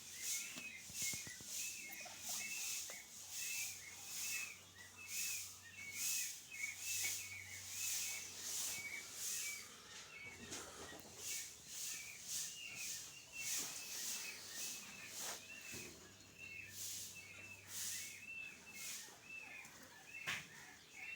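Newly hatched turkey poults peeping: a stream of short, high, repeated peeps, about two a second, over a hiss that swells and fades regularly.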